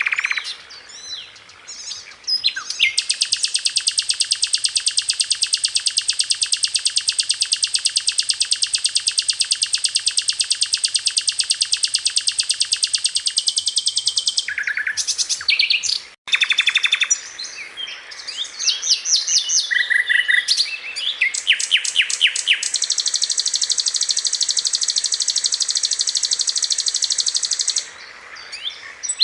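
Hill blue flycatcher (sikatan londo) song: two long, very fast trills of rapidly repeated high notes, each lasting several seconds, with short chirps and quick rattling phrases between them.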